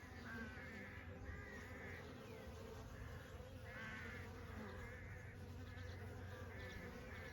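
Honey bees buzzing in a steady hum, with a bird calling over it in short repeated calls every second or so.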